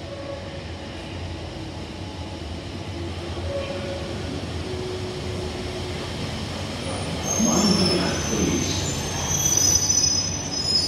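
Train moving through the station with a steady low rumble; from about seven seconds in, its wheels squeal high and thin on the rails as the sound grows louder.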